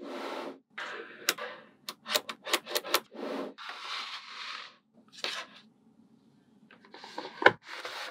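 Small magnetic balls clicking as they snap together, a quick run of clicks in the middle and one sharp loud click near the end, between short rubbing, scraping noises of the balls being slid and pressed into place by hand.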